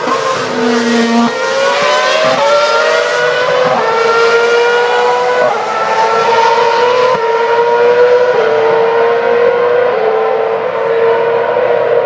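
2012 Formula 1 cars' 2.4-litre V8 engines running at high revs on the circuit. The pitch climbs and drops back at each upshift, several times over.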